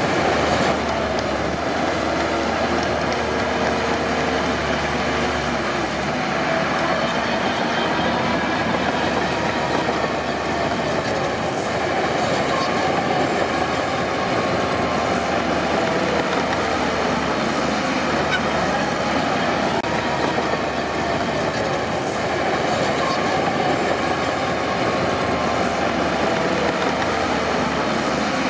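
Crawler bulldozer working, its diesel engine running steadily under the clanking and squealing of its steel tracks.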